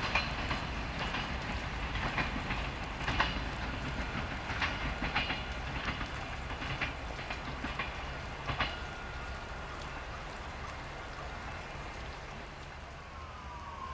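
Siemens Desiro diesel railcar moving away, its wheels clacking unevenly over the rail joints and switches above a low rumble. The sound fades as it recedes.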